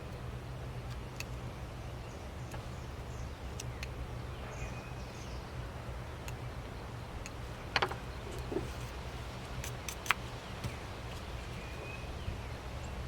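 Small scattered clicks and snicks of a carving knife cutting into a wooden block, the sharpest about eight and ten seconds in, over a steady low hum. A few faint short bird chirps sound in the background.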